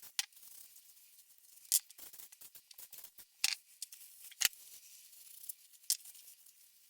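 A few scattered sharp clicks and light taps, irregularly spaced, with fainter ticking between them.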